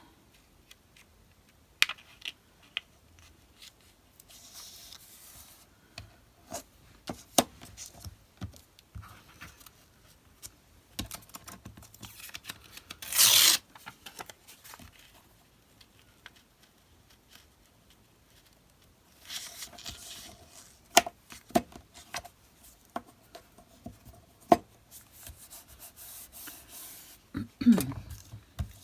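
Paper and card being handled on a craft desk: scattered light taps and clicks, stretches of rubbing and rustling, and one louder, short rasping burst about halfway through, like paper being torn or peeled.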